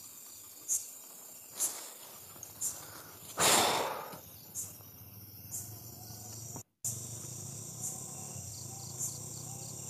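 Night insects chirping, short high-pitched chirps repeating about once a second over a steady hum of insect noise. About three and a half seconds in there is a louder, longer rush of noise, and the sound cuts out completely for a moment just before seven seconds.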